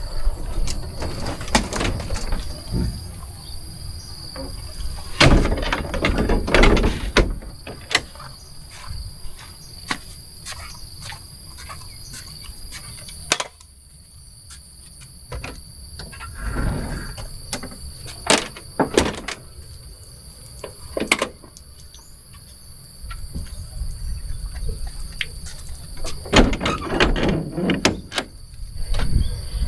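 Insects chirring steadily at a high pitch, with scattered knocks, clicks and low rumbling throughout.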